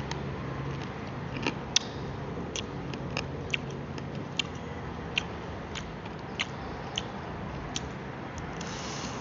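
Crunchy chewing and biting of fried chicken feet: about a dozen short, sharp cracks spaced irregularly over steady background noise.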